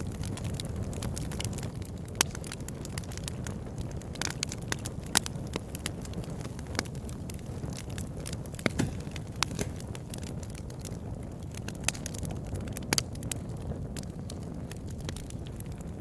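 Campfire crackling and burning: a steady low rumble of flames with irregular sharp pops and snaps of burning wood, a few louder pops standing out.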